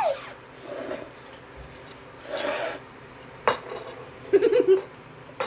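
Eating noises: a rasping scrape, then sharp clicks of utensils against a dish, with a brief low murmur between them.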